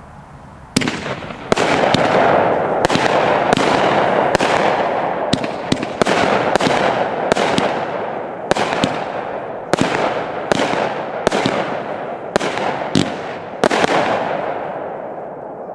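A 200-gram consumer firework cake with 3/4-inch tubes firing its 16-shot sequence. Sharp reports start about a second in and come roughly one or two a second, over a continuous noise that dies away near the end.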